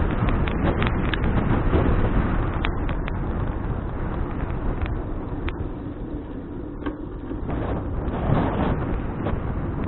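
Wind rushing over the microphone of an action camera on a moving bicycle, easing off a little in the middle, with a few scattered light clicks.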